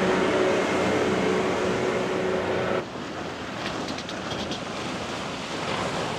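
A motorboat's engine running with a steady hum. About a third of the way in it cuts off suddenly, and wind and waves washing against the inlet follow.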